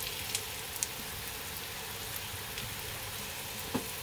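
Diced onions and flour-dredged beef pieces frying in butter in a pot: a steady sizzling hiss with a few faint ticks and pops.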